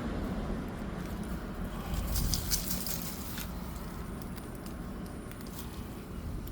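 Weeds being pulled up by hand: leaves and stems rustling and crackling, busiest about two to three seconds in, over a low rumble.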